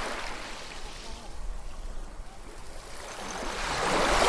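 Ocean waves washing onto a shore: one wash of surf fades away, then the next wave builds and breaks near the end, the loudest moment.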